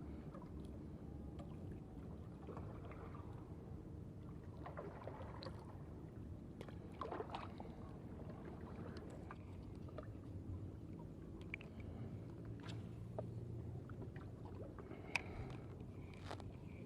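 Faint low outdoor rumble with a few scattered light clicks and taps.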